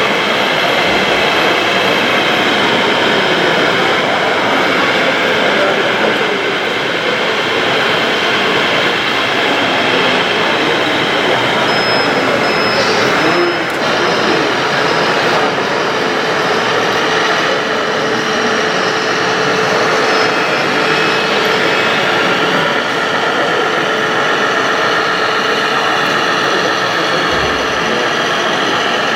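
Steady mechanical running noise of radio-controlled model machinery, with a faint high whine held through the middle.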